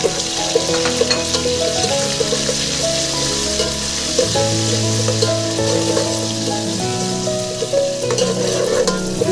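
Onions, mint and coriander leaves sizzling and bubbling in a steel pot as a ladle stirs them, with light clinks of the ladle. Background music with a melody plays over it.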